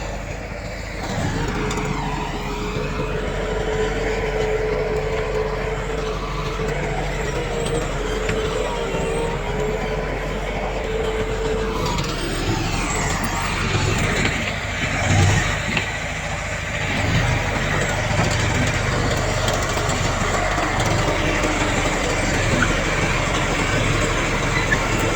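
Heavy diesel earthmoving machinery running. There is a steady whine through the first half, and the engine pitch rises and falls a couple of times.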